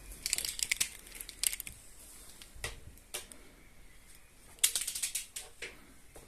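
Irregular clusters of light, sharp clicks and rustles in a small room, coming in several short bursts with quiet gaps between.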